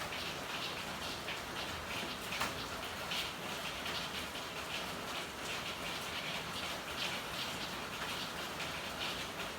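Steady rain falling and pattering on hard surfaces as a dense, even hiss of drips and splashes, with one sharper drip about two and a half seconds in.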